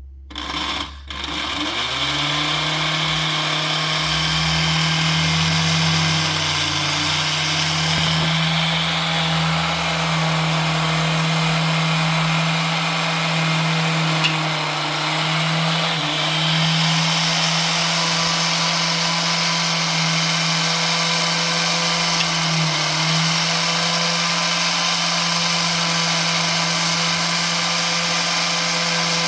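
Electric motor of an American Flyer No. 23796 toy sawmill accessory running, a steady whirring buzz. It starts about a second in and quickly rises to a steady pitch.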